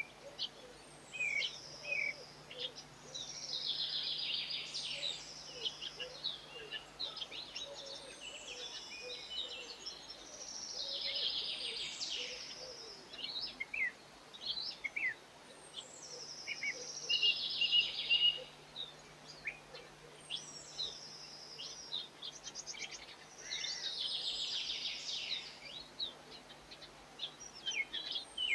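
Garden songbird singing: a fast, high song phrase of about three seconds repeated roughly every six to seven seconds, with shorter chirps between.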